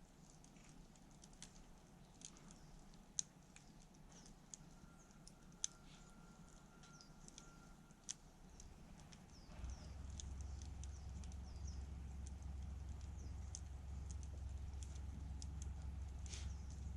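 Wood campfire crackling, with irregular sharp pops and a thin steady whistle for a few seconds midway. A low rumble comes in about ten seconds in.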